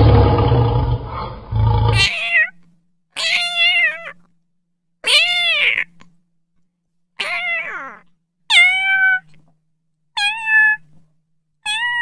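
Kitten meowing: seven high, thin meows about one to two seconds apart, the early ones arching up and down in pitch and the later ones falling. Before them comes about two seconds of low rumbling noise that cuts off suddenly.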